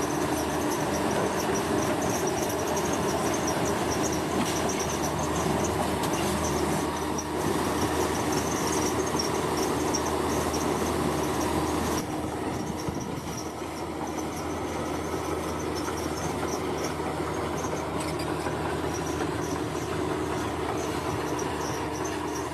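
Heavy diesel construction machinery running steadily, a continuous mechanical drone with a steady hum under it. The sound shifts and gets a little quieter about halfway through.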